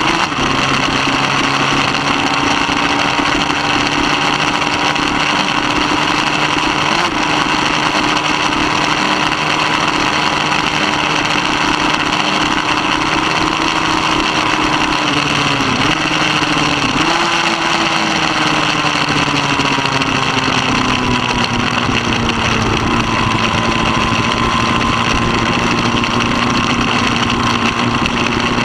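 Racing motorcycle engine running hard at high revs, with a rush of wind noise. The engine pitch holds steady, dips briefly twice past the middle, then settles slightly lower.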